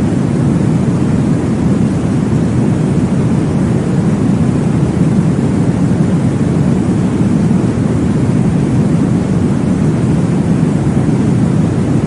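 Steady, deep rushing noise from a baby sleep-aid white-noise track, with most of its weight low and no breaks or rhythm.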